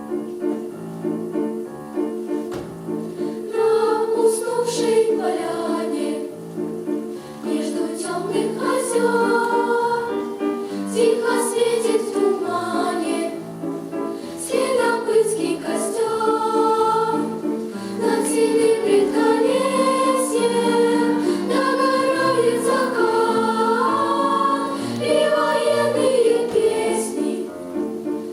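Choral singing with accompaniment, a song sung by a group of voices.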